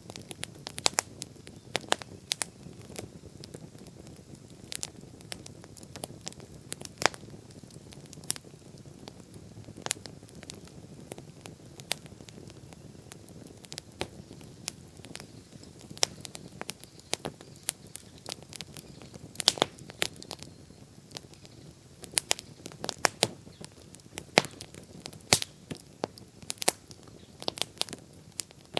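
Wood bonfire crackling: irregular sharp pops and snaps, bunching closer together in the second half, over a low steady rush of the flames.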